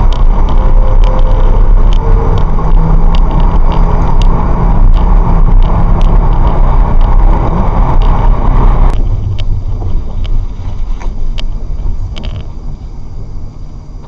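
Steady road and tyre noise of a car driving at speed, picked up by a dashcam microphone inside the car, with scattered small clicks. About nine seconds in, the hiss drops away abruptly and the noise then fades steadily.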